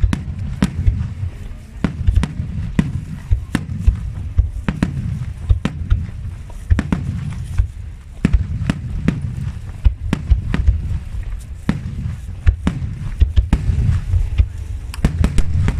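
Aerial firework shells bursting in rapid succession: a dense run of sharp bangs, several a second, over a continuous low rumble.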